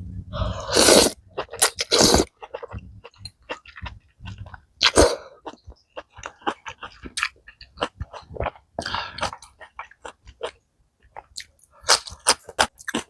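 Close-miked mukbang eating sounds of a person eating spicy malatang: chewing, wet mouth clicks and smacks throughout, with several louder noisy bursts, the loudest about a second in.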